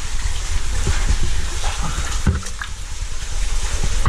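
Cavers moving through a shallow pool in a low, wet cave passage: water sloshing and splashing with scrapes and a few knocks, over a steady low rumble on the microphone.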